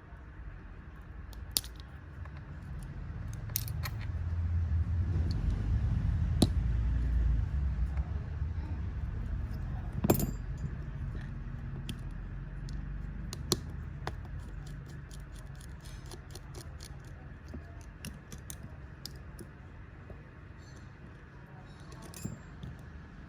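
Scattered small sharp clicks and light metallic taps, as of small tools and parts being handled during a smartwatch repair, over a low rumble that swells about four seconds in and fades away by about twelve seconds.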